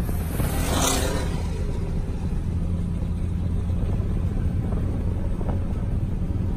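Vehicle engine running with a steady low rumble, with a brief whooshing rush about a second in.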